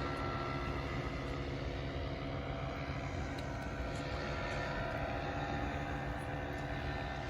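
A steady low mechanical drone with several held tones over a rumble, unchanging in loudness.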